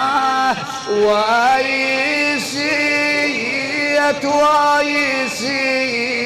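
A man's voice chanting an Arabic mourning lament in long, held phrases that waver and glide in pitch, with short breaks for breath.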